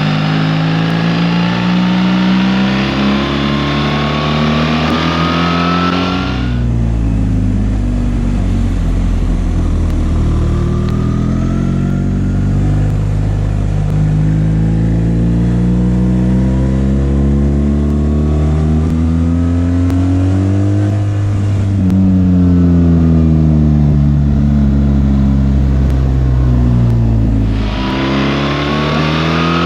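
BMW R 1300 GS's boxer twin engine under way, its pitch repeatedly rising as it pulls and dropping back with gear changes and slowing. About six seconds in the sound turns suddenly duller and deeper, and it brightens again near the end.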